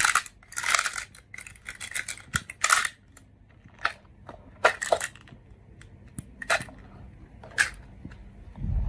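Marbles clattering and clicking along a wooden marble run and against toy trucks: a dense run of sharp clicks and rattles for about three seconds, then single clicks every second or so.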